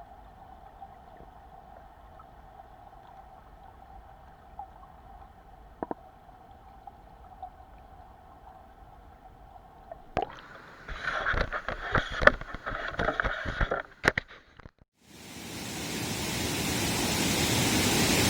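Mountain stream rushing, fading in strongly about three seconds before the end. Before it come several seconds of faint steady noise with a thin hum, then a few seconds of irregular knocking and clattering.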